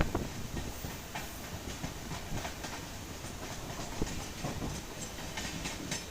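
Moving passenger train running on rails: a steady rumble of wheels and carriages with irregular sharp clicks and knocks, the sharpest right at the start.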